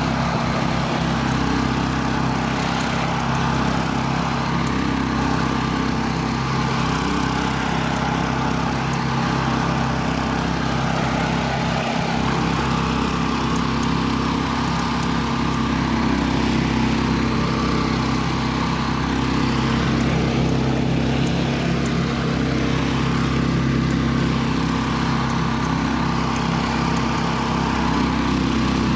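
Karakat's engine running steadily as the all-terrain vehicle drives on through snow, likely in low-range gears, holding an even pitch and level throughout.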